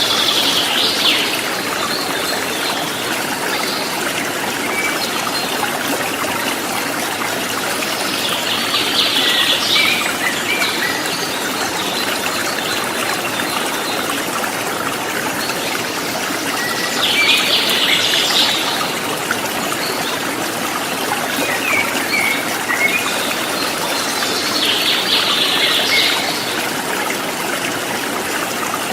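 Shallow river running over rocks, a steady rush of water. A bird calls four times, each a short burst of rapid high notes about eight seconds apart, with a few softer chirps between.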